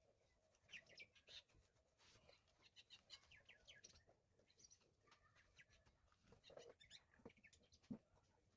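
Near silence with faint chirping of small birds throughout, and a couple of soft knocks near the end.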